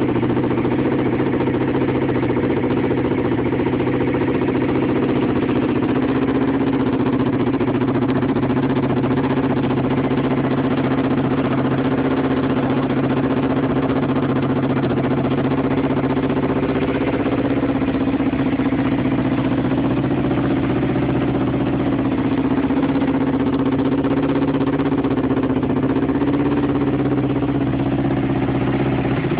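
Kawasaki Ninja 500R's parallel-twin engine idling steadily with the choke on, a cold-start fast idle as it warms up.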